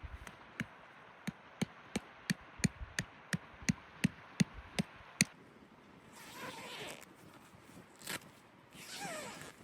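A quick, even run of about a dozen sharp chopping knocks, roughly three a second, that stops about five seconds in. Softer rustling or scraping follows, with one more knock near the end.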